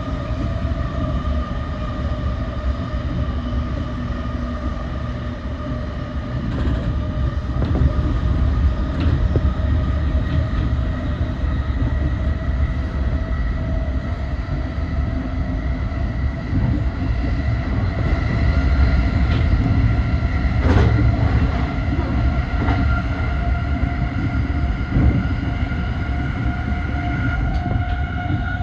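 E235 series 1000 electric train running between stations: a steady rumble of wheels on rail under a motor whine at several pitches that rises slightly toward the end. A few sharp clicks sound as the wheels cross rail joints.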